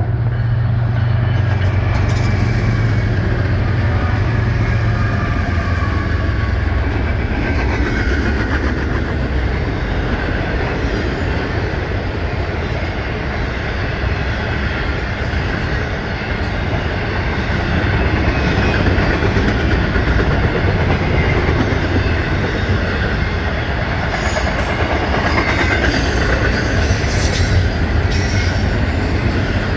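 Norfolk Southern freight train rolling past close by: a steady diesel locomotive rumble under the clatter of wheels over rail joints and the rush of passing cars.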